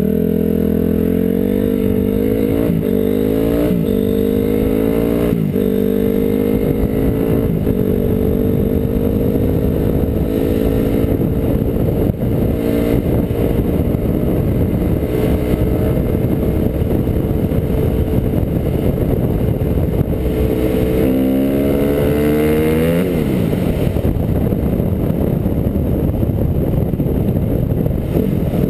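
Honda CRF250R's single-cylinder four-stroke engine accelerating through several quick upshifts, the pitch climbing and dropping back with each gear, then holding a steady cruise. Near the end it revs up again and the revs fall away sharply.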